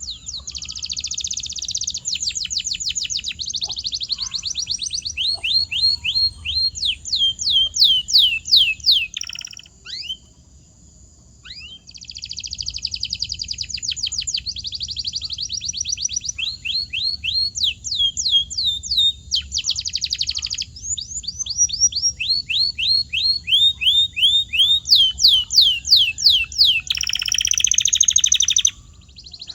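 Canary song: long rolling tours of fast repeated notes, each phrase a rapid series of sweeping chirps, with a short pause about ten seconds in before the song picks up again.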